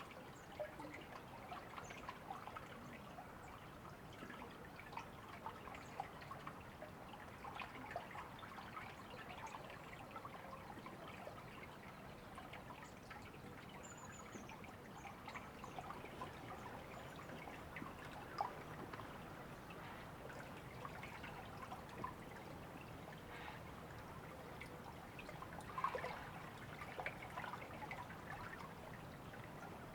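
River water trickling and babbling steadily, with many small splashes and a slightly louder splash near the end. A brief high bird chirp comes about halfway through.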